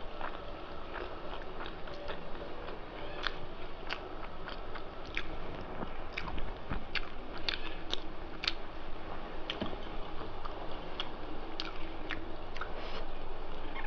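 Close-miked chewing and biting of rice with small-fish chochori, with frequent sharp wet mouth clicks and crunches at irregular intervals.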